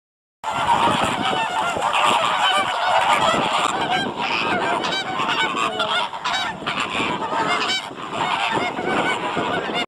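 A flock of birds honking, many goose-like calls overlapping in a dense, continuous din that cuts in abruptly about half a second in.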